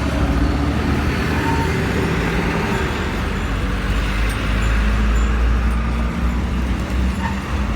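Steady car engine and road traffic noise, a continuous low rumble with no sudden events.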